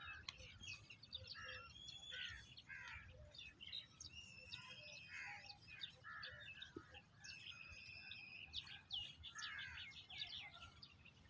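Birds chirping and calling, several at once, with quick chirps and a few held whistled notes.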